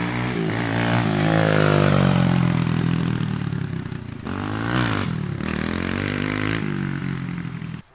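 Small dirt bike engine revving up and down under throttle during a wheelie run. About four seconds in the revs drop briefly and are blipped back up. The engine sound cuts off suddenly near the end.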